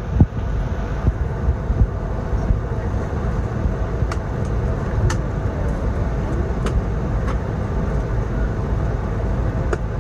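Steady low rumble inside an Airbus A220-300's cabin before departure, with a few light clicks from about four seconds in.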